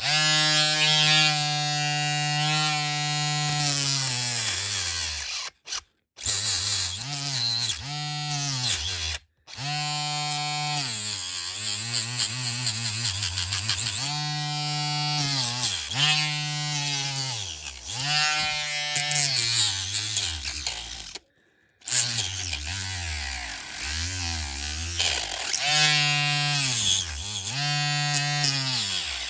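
Small handheld electric power tool running in spells, its motor whine dropping in pitch as it bites into the diecast car and picking up again, over and over, with a few short stops.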